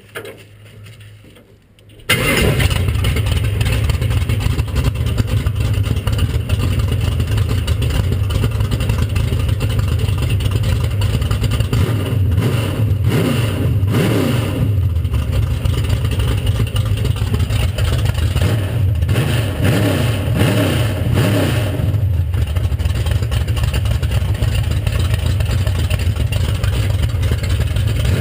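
An engine starting for the first time in the season: it fires suddenly about two seconds in and then runs steadily, with the revs rising and falling a few times midway.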